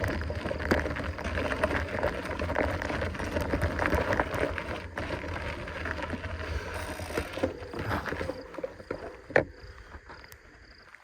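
Mountain bike being ridden along a dirt trail: a noisy run of tyre noise and small rattling knocks over a low wind rumble on the microphone. It drops quieter about eight seconds in, with one sharp click shortly after.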